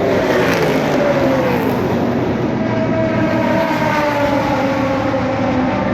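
Racing car engines running loud at a race meeting, the engine note falling in pitch in the first second or so and then rising again.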